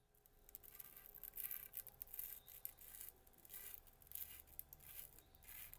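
Small piece of sandpaper scraping the grooved end of a trocar's metal tube, faint irregular scratchy strokes, cleaning and scoring the surface.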